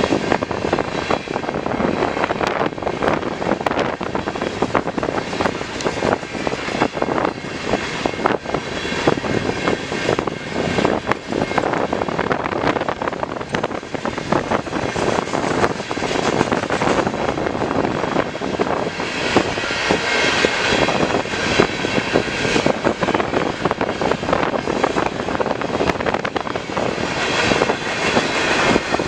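Freight train cars rolling past on the rails: a steady rumble of steel wheels with frequent clicks and clanks, and a brighter, higher hiss coming up twice in the latter part.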